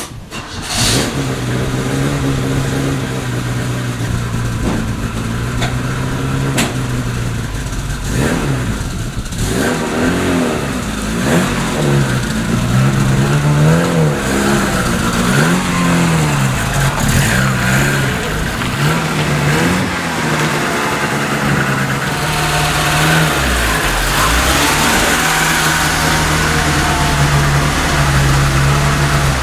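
Opel Kadett D car engine running, steady at first, then revved up and down several times through the middle, then settling back to a steady note.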